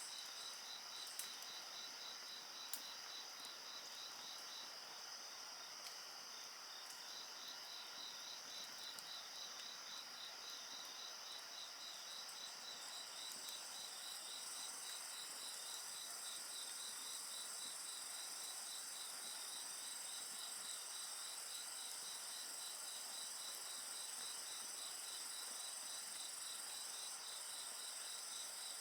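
Crickets calling steadily: one chirps in a rapid pulsed rhythm of several pulses a second while others trill continuously at a higher pitch. Two sharp pops from the bonfire near the start.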